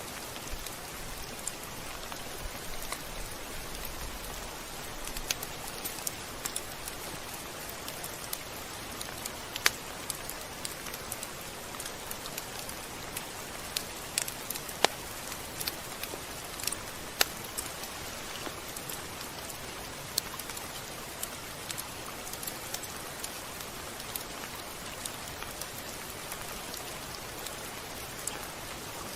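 Steady rain falling, an even hiss with scattered sharp drop ticks, a few louder ones standing out.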